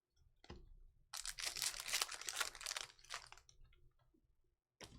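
A trading-card pack being torn open: a crinkly ripping of the wrapper lasting about two seconds, with a light click before it and two more sharp clicks of card handling near the end.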